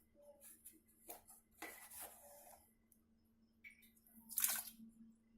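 Detergent powder being poured into the water-filled wash tub of a twin-tub washing machine: several short, faint rustling pours, the longest about one and a half seconds in and another near the end.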